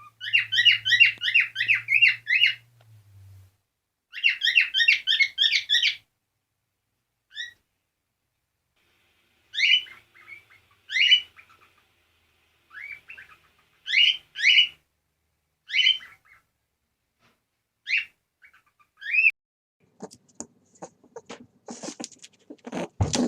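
A bird calling: two fast trills of rapid repeated chirps, then a series of single sharp, downward-sweeping calls spaced a second or two apart. Near the end a scratchy rustling starts.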